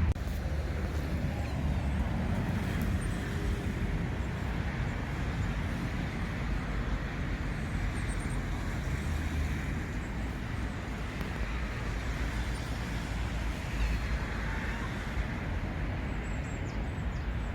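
Steady outdoor street ambience with a low rumble of distant traffic.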